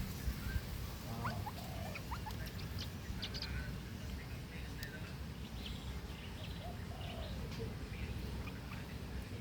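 Birds giving scattered short, high squeaks and chirps over a steady low rumble.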